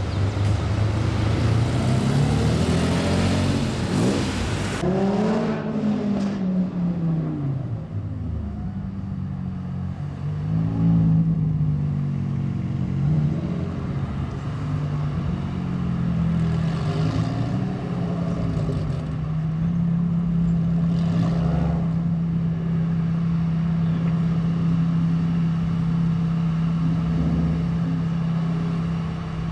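A Lamborghini Countach's V12 drives past loudly, its engine note falling as it goes by. Then a Lamborghini Gallardo Superleggera's V10 rises and falls at low speed before settling into a steady drone for the last ten seconds.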